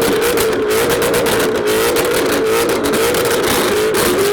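Two Ford Mustangs, one of them a supercharged 820-horsepower car, revving together and held at high revs, loud, the pitch wavering around a steady high note with sharp crackles over it.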